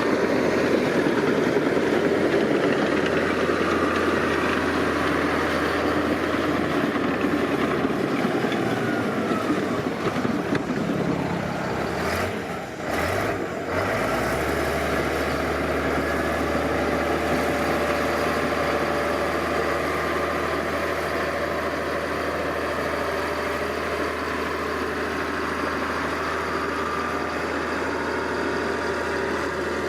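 Diesel engine of heavy earthmoving machinery (bulldozer or excavator) running steadily. About halfway through there is a brief dip with a few sharp knocks, then the engine carries on as before.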